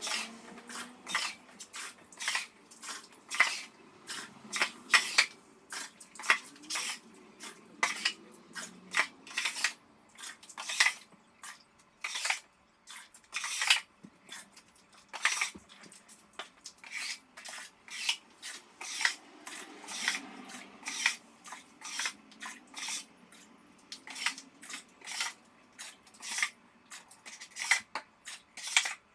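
Water dripping from a leaking roof, drops hitting containers in quick, uneven taps, about two a second.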